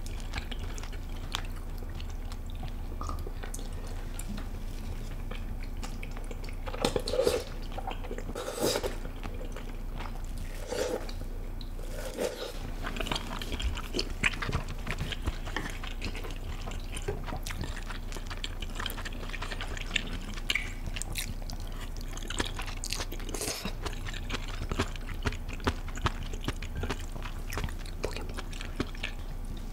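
Close-miked eating of spicy malatang stew: wet chewing and mouth sounds of noodles and vegetables, with sharp clicks scattered throughout and a few louder wet sounds between about 7 and 12 seconds in.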